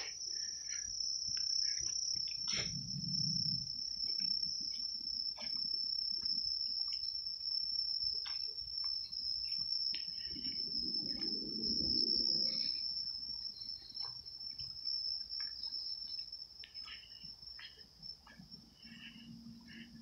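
Crickets trilling in one steady, unbroken high-pitched tone. Scattered soft clicks and a couple of low rustles sound beneath it.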